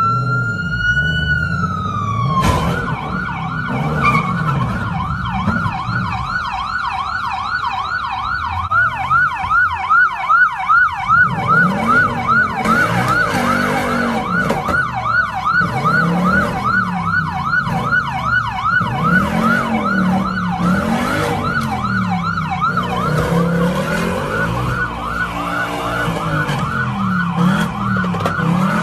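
Emergency vehicle siren: a slow wail sweep that turns about two seconds in into a fast, rapidly repeating up-and-down yelp that runs on steadily. From about halfway a lower tone rises and falls slowly underneath it.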